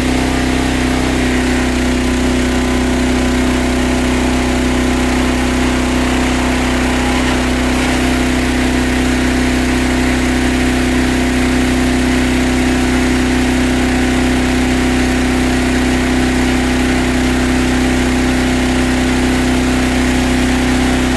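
Gas pressure washer engine running steadily at constant speed.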